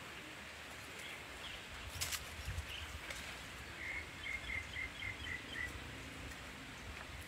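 Steady hiss of an outdoor rain ambience. About four seconds in, a bird gives a quick run of about seven chirps, roughly four a second. A single sharp click comes about two seconds in.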